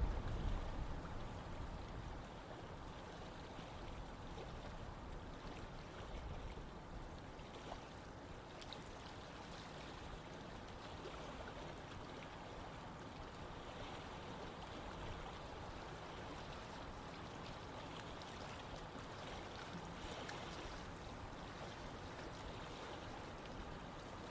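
Running stream water flowing steadily. A louder low rumble at the start dies away over the first two seconds.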